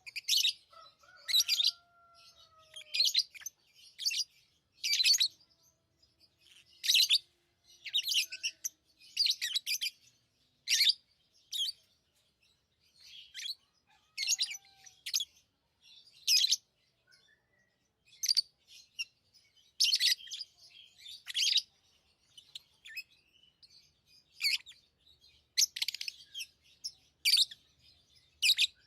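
Pet lovebirds chirping: short, shrill, high-pitched chirps repeating about once a second.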